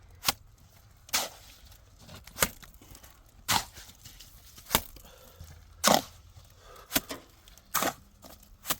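A steady series of sharp strikes, about one a second, some of them with a short scraping or tearing tail.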